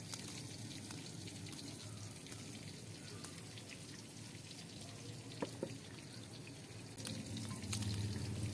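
Water trickling and dripping, with scattered light clicks and two sharper clicks about five and a half seconds in.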